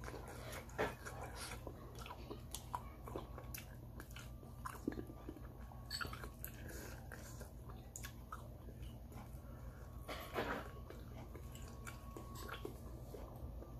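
Close-up eating sounds of sauced fried chicken being bitten and chewed: scattered wet clicks and smacks, over a steady low hum.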